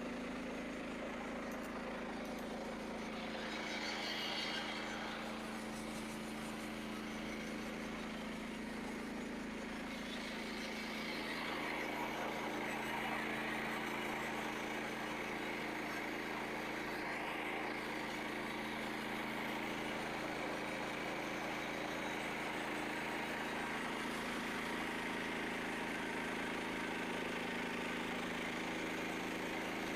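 Engine of a Frontier OS27 portable bandsaw mill running steadily. Partway through, the sound grows a little louder, with more hiss.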